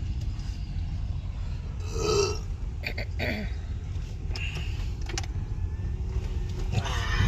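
Steady low rumble of a vehicle running, heard from inside a car. A short pitched sound cuts in about two seconds in, and there are a few light clicks.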